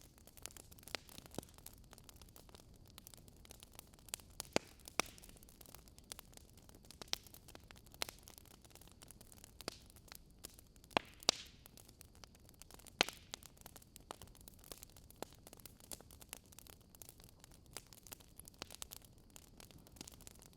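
Wood fire burning and crackling: irregular sharp pops and snaps over a faint steady hiss, with a few louder snaps scattered through.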